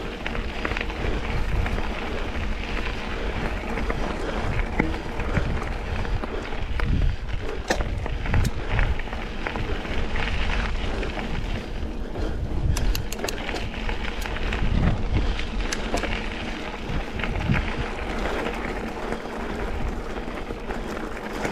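Wind buffeting the microphone and mountain bike tyres rumbling over a dirt double-track trail, with scattered sharp clicks and rattles from the bike.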